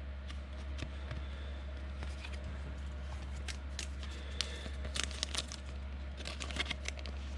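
Football trading cards being handled and flipped through by hand: light rustles and short clicks, bunched around the middle and near the end, over a steady low electrical hum.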